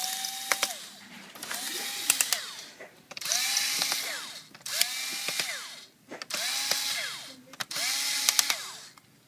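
Small electric drill backing out the laptop's heatsink screws in about seven short runs. Each run is a motor whine that spins up, holds and winds down, with clicks from the bit and screws in between.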